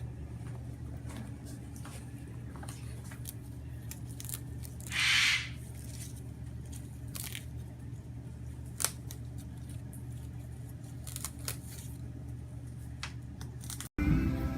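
Moluccan cockatoo chewing and tearing at mint: scattered small crackling clicks and one short tearing rasp about five seconds in, over a steady low hum. Just before the end it cuts to guitar music.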